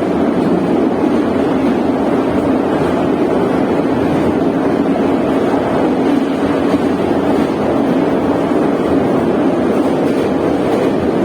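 Moscow metro train running at speed between stations, heard from inside the carriage: a steady, loud rumble of wheels on rails with tunnel noise.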